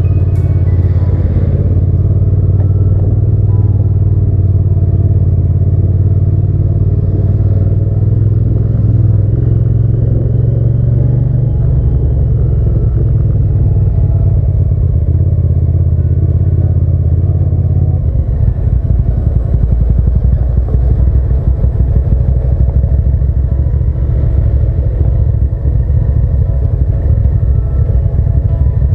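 Hyosung GT650's V-twin engine running under way, with a loud steady low rumble of engine and road noise. About eighteen seconds in the rumble turns choppier and more uneven.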